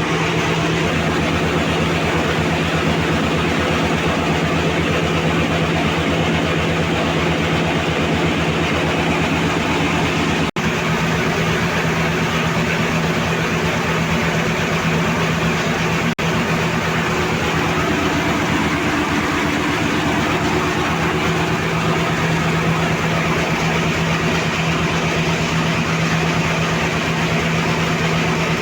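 Kobelco SK130 hydraulic excavator's diesel engine running steadily at working speed, a constant drone, broken by two momentary drop-outs about ten and sixteen seconds in.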